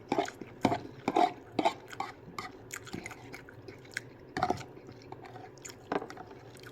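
Close-up eating sounds of spicy ramen noodles and soup: irregular wet chewing smacks and clicks, about ten over several seconds.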